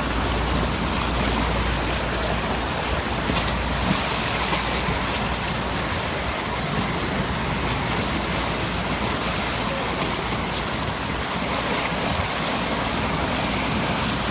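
Lagoon water rushing steadily through a freshly dug breakout channel toward the ocean, an even, unbroken rushing noise.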